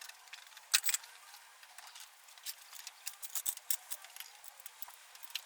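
Scattered sharp clicks and light knocks, the two loudest about a second in, like metal tools or a car jack being handled.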